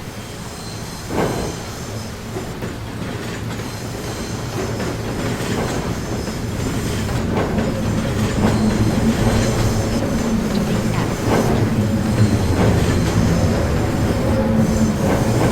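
New York City subway train running on the track, its noise growing steadily louder, with a steady low motor hum and wheels clicking over rail joints.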